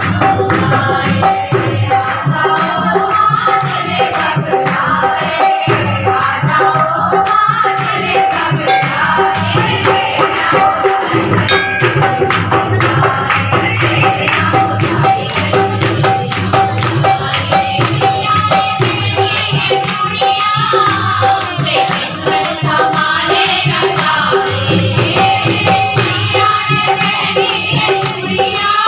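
Hindu devotional music in praise of the goddess: singing over a fast, steady beat of jingling percussion such as a tambourine.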